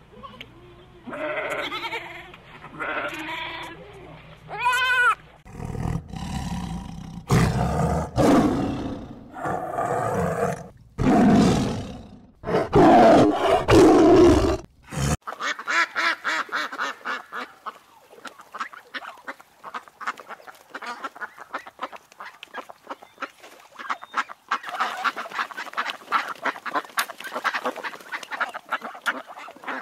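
A series of animal calls: separate loud calls over the first half, then a fast, continuous run of short calls or clicks through the second half.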